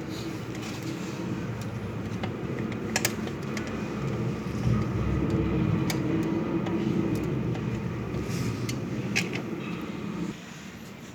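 A steady low engine-like rumble that swells in the middle and drops off abruptly near the end, with a few sharp clicks over it.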